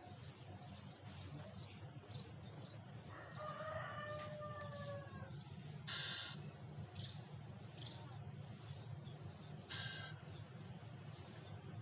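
Scops owl calling: two short, harsh calls about four seconds apart, about halfway through and near the end, with a fainter drawn-out call a few seconds in.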